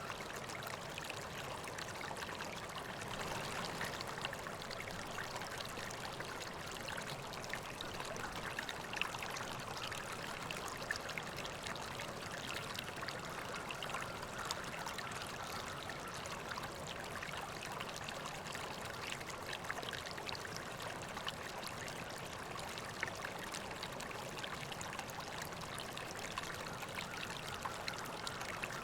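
River water flowing steadily, with many small splashes and trickles scattered through the rushing.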